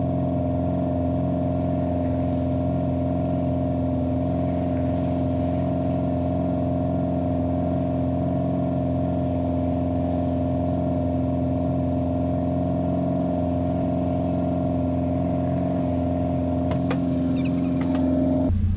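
Mazda B-series pickup cruising at a steady speed, heard from inside the cab as an even engine and road drone with several steady tones. Near the end there are a few sharp clicks, and then the sound changes abruptly.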